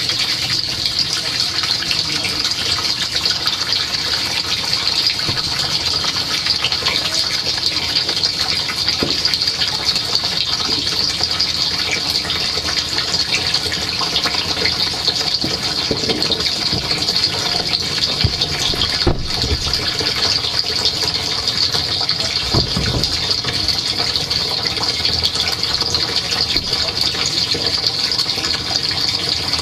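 Dishwasher wash cycle heard from inside the tub: a steady rush of water spraying and splashing, with a couple of low thuds a little past the middle.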